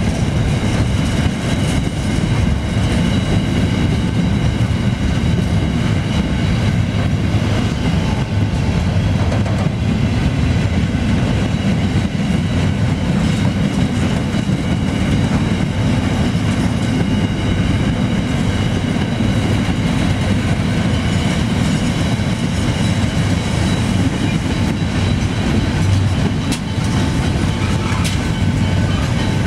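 Freight train wagons rolling past close by: a continuous rumble of steel wheels on rail, with faint steady high-pitched tones above it.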